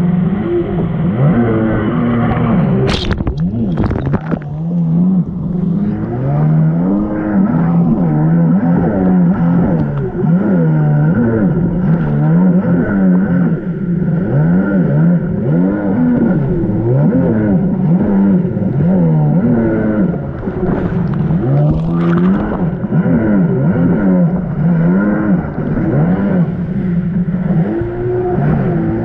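1999 Sea-Doo XPL's two-stroke engine running hard, its revs rising and falling again and again. Sharp knocks come about three and four seconds in, and another near the end.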